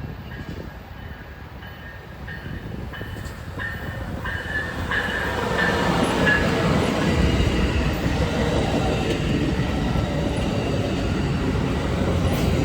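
A train approaching and passing close by, the rumble of wheels and cars growing louder over the first six seconds and then holding steady. Early on an evenly repeated ding sounds above the rumble.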